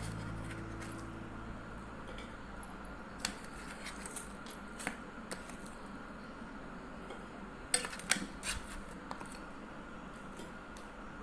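Scattered light clicks and clinks of kitchen utensils or dishes being handled, with a few taps in the middle and a quick cluster of them later on.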